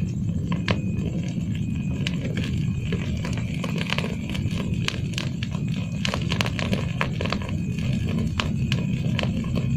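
Campfire crackling: many irregular sharp pops and snaps from the burning wood, over a steady low rumble.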